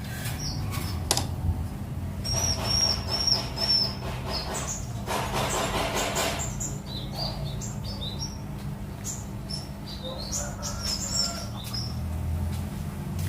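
Kapas tembak (orange-spotted bulbul) giving a run of short, high chirps, with a burst of rustling in the middle and a steady low hum underneath.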